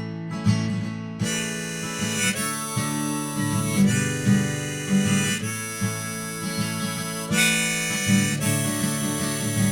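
Harmonica playing held notes and chords over a strummed acoustic guitar in an instrumental break between sung lines of a folk song. The harmonica changes note every second or two.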